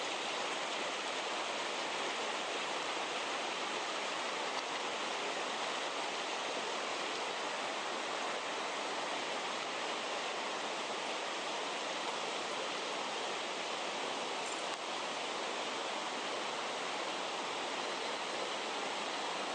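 Rushing water of a mountain headwater stream: a steady, unbroken rush with no change in level.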